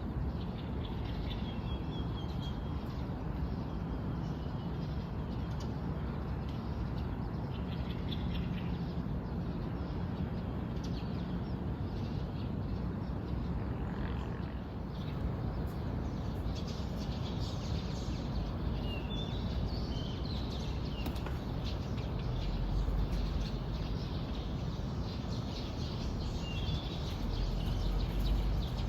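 Birds chirping and calling now and then, in short high chirps, over a steady low rumble.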